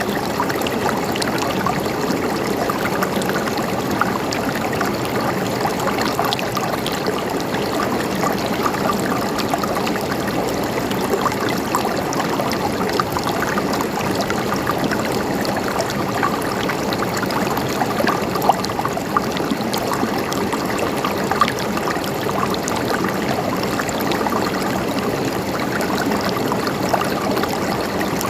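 River water flowing over rocks: a steady rushing and gurgling with small splashes.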